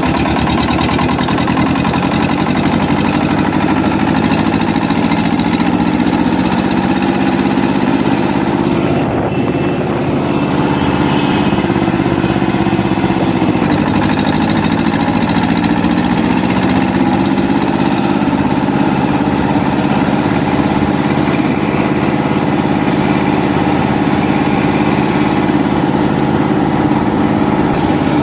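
Eicher 364 tractor's diesel engine running steadily while hauling a loaded trolley. The engine note wavers slightly and dips briefly about halfway through before recovering.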